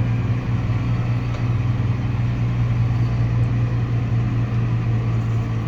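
Tractor's diesel engine running steadily at a constant pitch, a low even drone with no change in speed.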